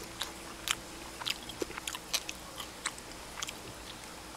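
A person chewing roast duck meat close to the microphone, with irregular small wet clicks and smacks of the mouth.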